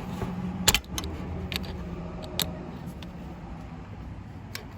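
Sharp metallic clinks of an adjustable wrench working on a lawnmower engine's fittings, about five in all, the loudest about a second in. A steady low hum runs underneath.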